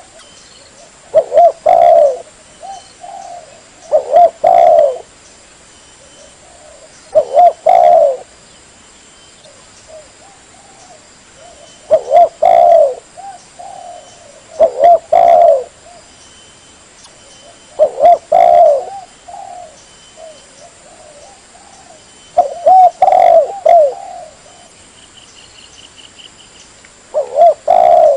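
Spotted dove (tekukur) cooing: a phrase of several arched coos, repeated about every three to four seconds.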